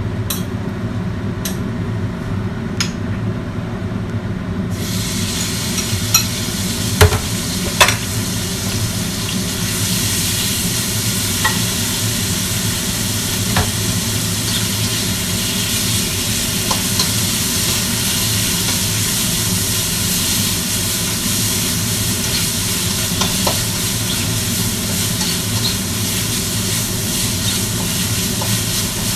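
Food frying in hot oil in a wok: the sizzle starts about five seconds in and grows louder about ten seconds in, then holds steady as a spatula stirs it. Metal knocks and clinks of the spatula against the wok stand out around seven and eight seconds in, over a steady low hum.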